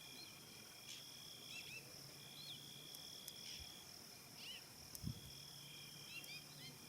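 Faint savannah dusk ambience: insects trilling steadily at several high pitches, with short bird chirps scattered through and a soft thump about five seconds in.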